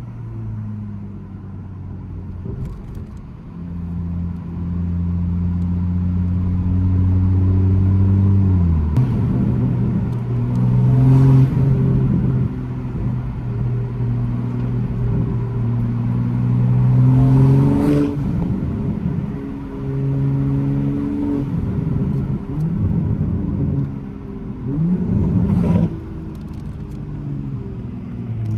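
Toyota GR Supra's loud, modified engine and exhaust under way: the pitch climbs as it pulls through the revs, drops sharply at a gear change about nine seconds in, then holds a steady drone before rising and falling again. A few short sharp sounds stand out between gears.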